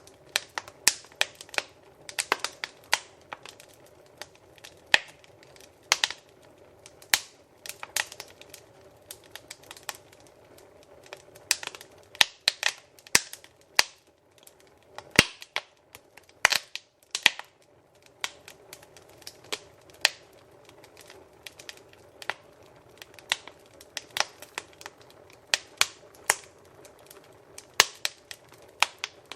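Wood fire in a fireplace crackling: irregular sharp pops and snaps, sometimes several in quick succession, over a faint steady hiss of burning.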